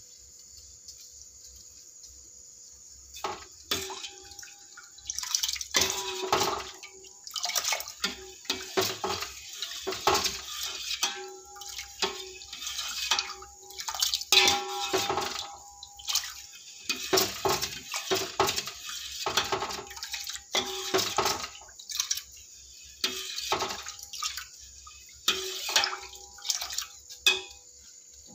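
Water splashing and sloshing in repeated irregular bursts, starting about three seconds in, with some clatter of a pot.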